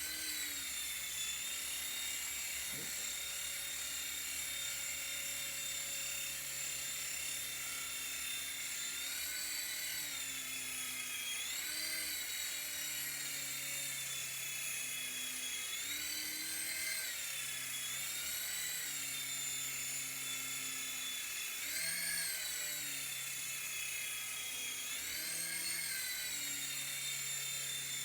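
Small toy RC helicopter's electric motors and twin-tier rotors whining steadily, the pitch rising and falling several times.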